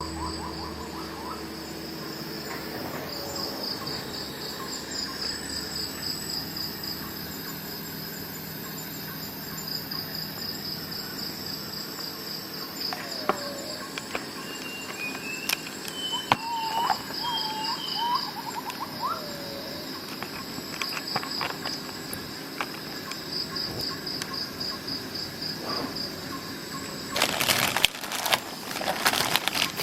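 Insects chirping in repeated pulsing trains, with a few short bird calls midway. Near the end a burst of rustling and clicking starts.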